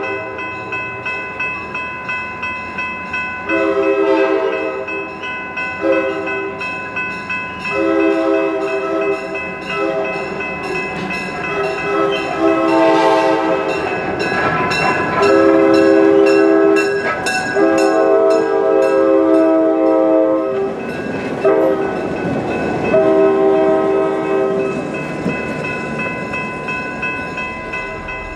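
A passing train's locomotive sounding a long series of warning blasts, about a dozen long and short ones, over the noise of the train running by.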